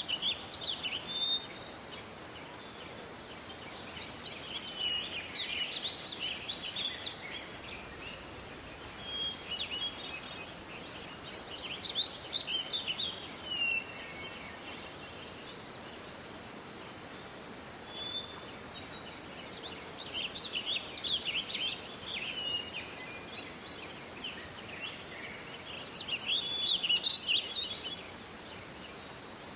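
A songbird singing in rapid, twittering phrases of one to three seconds, repeated after pauses of a few seconds, over a steady background hiss.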